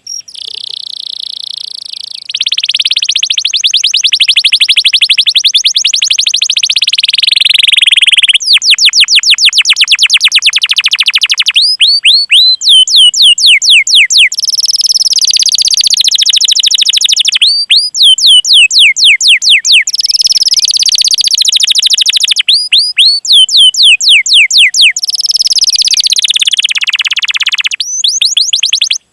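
Domestic canary singing a long, unbroken song: fast rolling trills alternate with runs of quick repeated whistled notes that sweep downward, all high-pitched and loud, with short breaks between phrases.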